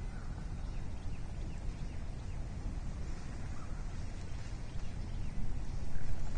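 Steady low rumble of wind on an outdoor nest-camera microphone, with faint, short bird chirps now and then.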